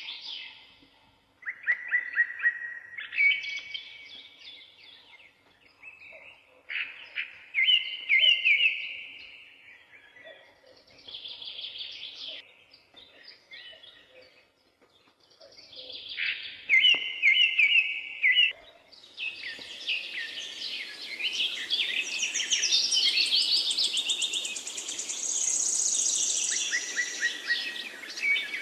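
Wild songbirds singing in a forest, in short repeated phrases a few seconds apart. From about two-thirds of the way in, the song thickens into a denser, higher chorus over a steady hiss.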